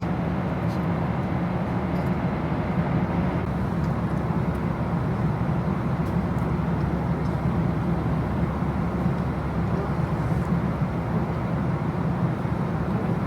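Steady low rumble of a moving vehicle, even and unbroken, with a strong low hum.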